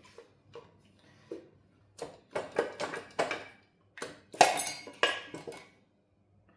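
Metal tools and engine parts clinking and knocking in two quick clusters of sharp strikes with a short ring, the loudest a little past the middle.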